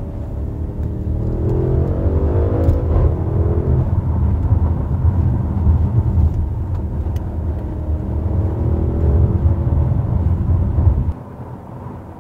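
A 2015 Audi RS7's twin-turbo 4.0-litre V8 accelerating hard in a low gear with the sports exhaust valves open, heard from inside the cabin. The engine note rises for the first few seconds with a brief break about three seconds in, then holds a steady heavy drone, and cuts off suddenly about eleven seconds in.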